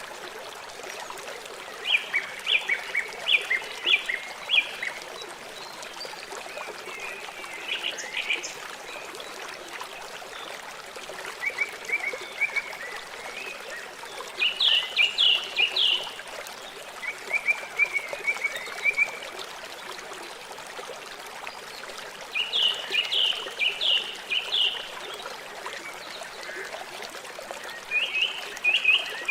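River water flowing steadily. Over it come repeated quick runs of short, high chirping calls from an animal, each run lasting a second or two, about every three to six seconds.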